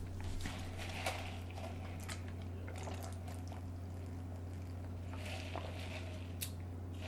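Faint close-up eating sounds: soft, scattered wet mouth noises of chewing, over a steady low electrical hum.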